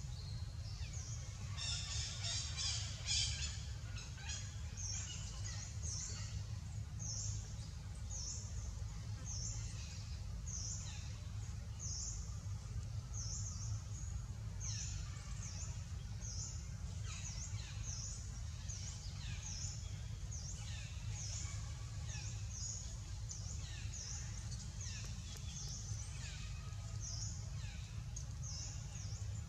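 Bird chirping: short high notes repeated about one to two a second, with a quick busy cluster about two seconds in, over a steady low rumble.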